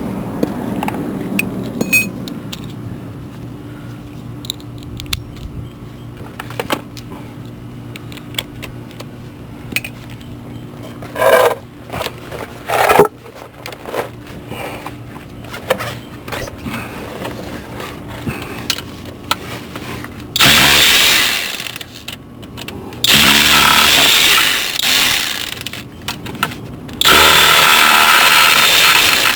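Scattered metallic clicks and knocks of tools working on the starter mounting bolts. Then, from about twenty seconds in, a power tool runs in three long bursts as a starter bolt is backed out.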